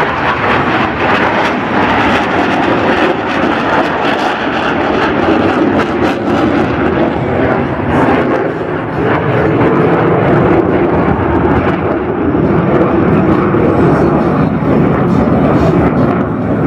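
Blue Angels F/A-18 Hornet jets flying past, a loud, continuous jet noise that holds steady throughout.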